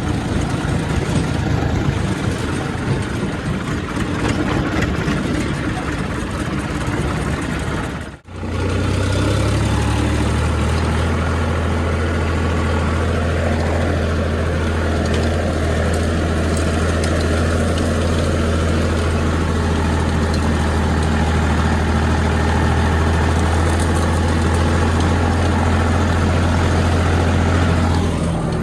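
Heavy diesel engine running. About eight seconds in the sound drops out briefly, and after that it holds a steady, strong low hum.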